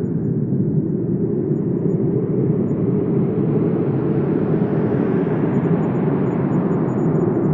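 Wind blowing in a steady low rush. A gust swells and grows brighter towards the middle, then eases off near the end.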